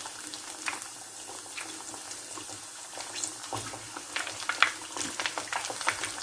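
KFC-style chicken pieces frying in hot oil: a steady sizzle with scattered crackling pops that come more often about halfway through.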